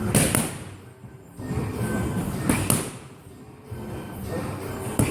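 Punches landing on boxing pads: quick pairs of sharp smacks, about two and a half seconds apart, over background music.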